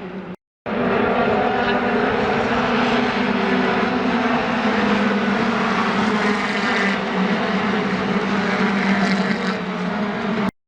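Loud, steady engine drone with several held tones that barely change in pitch, cut out briefly just after the start and again near the end.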